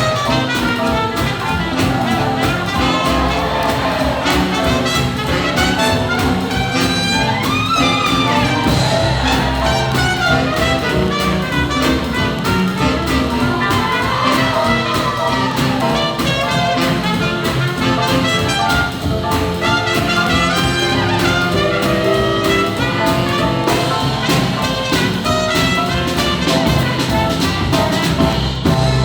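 Live big-band swing jazz with trumpets, trombones and saxophones over a steady rhythm section, playing up to a sudden final cutoff near the end.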